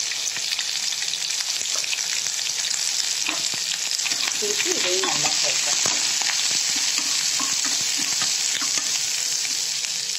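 Chopped onions, garlic and ginger sizzling in hot oil in a non-stick kadai, stirred with a spatula that clicks and scrapes against the pan now and then.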